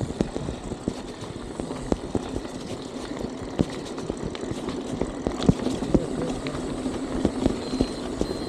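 Wind buffeting the microphone on a bicycle ride over rough ground, with frequent short knocks and rattles from the bike.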